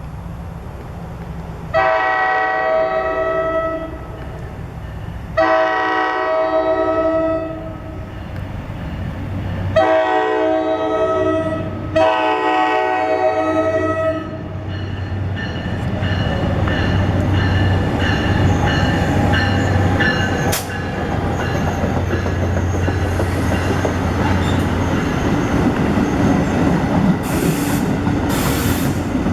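A diesel locomotive's multi-chime air horn sounds four long blasts, then the train passes with its engine running and wheels clicking and squealing on the rails.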